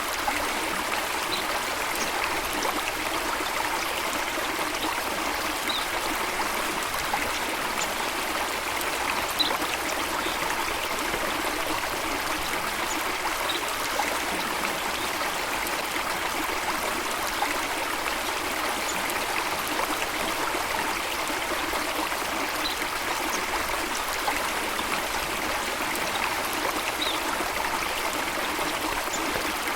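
Water flowing steadily in an even, unbroken rush, with faint brief bird chirps every few seconds.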